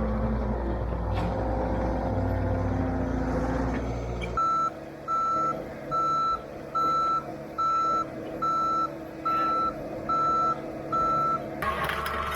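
A vehicle's engine running with a low rumble, then a reversing alarm beeping steadily over it: nine even beeps, about one a second.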